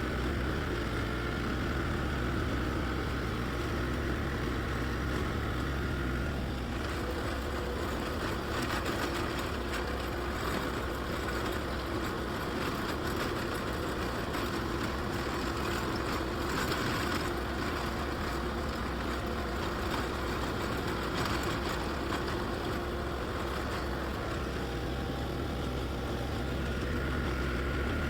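Engine running steadily under load while a rotary tiller churns the ground, with an even, continuous drone.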